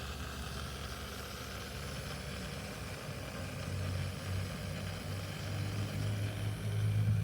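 Small metal lathe's electric motor running with a steady low hum that grows somewhat louder near the end.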